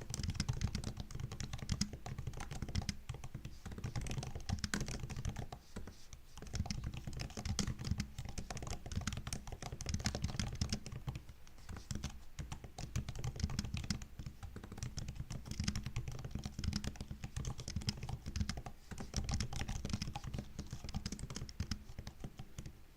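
Fast, continuous typing on a MacBook laptop keyboard: a dense stream of soft key clicks and taps, with a few brief pauses.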